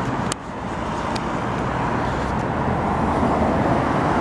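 Steady road traffic noise from passing cars. About a third of a second in, a sharp click as the handlebar-mounted camera is handled, and the sound drops briefly before building back up.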